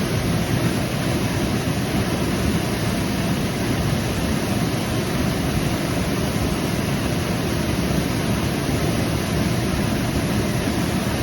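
Waterfall: a steady, loud rush of falling water, strongest in the low range.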